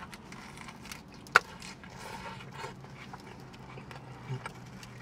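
A person biting into and chewing a sub sandwich, with small crackly mouth noises and one sharp click about a second and a half in, over a steady low hum.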